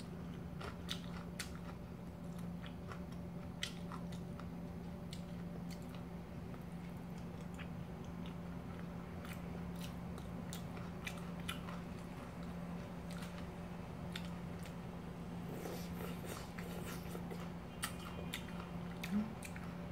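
Quiet, close-miked chewing and mouth sounds of someone eating cold kimchi noodles, with scattered small clicks over a steady low hum.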